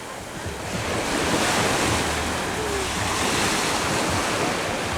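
Wind blowing across the microphone: a steady rushing noise with a gusting low rumble.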